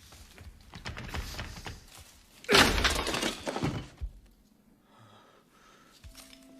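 A sudden loud crash about two and a half seconds in, lasting about a second and a half, after a run of scattered knocks.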